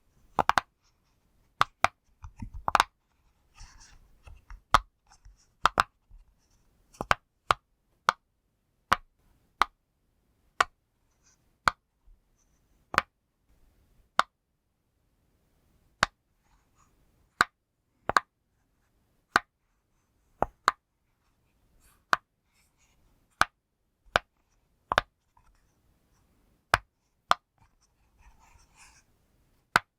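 Pop toy bubbles pressed one after another, each giving a short sharp pop, about one every three-quarters of a second, with a few quicker pops in the first seconds.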